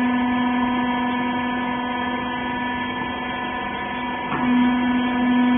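Hydraulic power unit of a rag press baler running with a steady hum. About four seconds in there is a short click, after which the hum gets a little louder.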